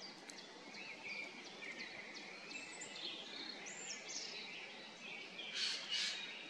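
Small songbirds chirping and twittering: many short high notes and quick glides, several birds at once, with a louder run of chirps near the end.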